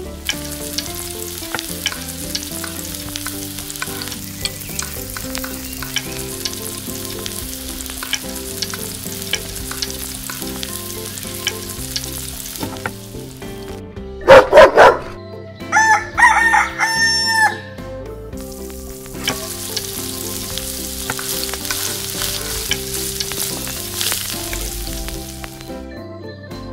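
Food sizzling and crackling as it fries in oil in a miniature pan, over background music. About halfway through the sizzling breaks off and a rooster crows loudly for about three seconds, then the sizzling returns.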